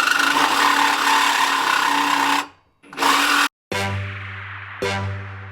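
Power saw cutting through a steel exhaust pipe, stopping suddenly about two and a half seconds in and running again briefly. Music with held low notes comes in near the end.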